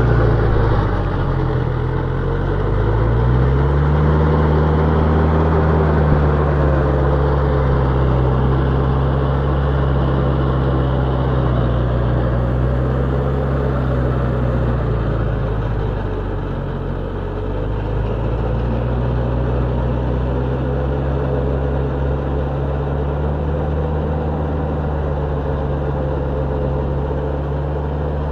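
Tractor diesel engine running steadily under load while pulling a rotavator through hard soil. Its pitch sags briefly twice, about a second in and again a little past halfway, as the engine labours, then picks back up.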